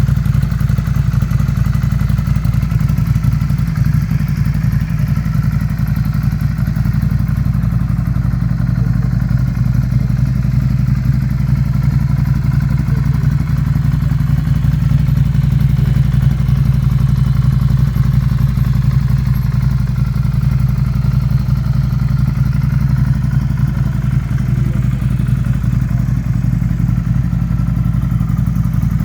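Ducati Scrambler Classic's 803cc air-cooled L-twin engine idling steadily, with no revving.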